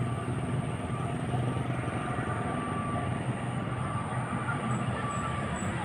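Airplane engines running with a steady low drone and a thin, steady high whine over it.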